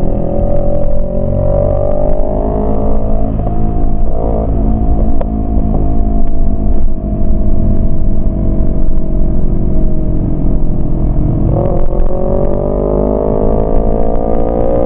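Yamaha MT-25's 249 cc parallel-twin engine under throttle while riding. The revs rise, ease and hold fairly steady through the middle, then climb steadily again from about twelve seconds in.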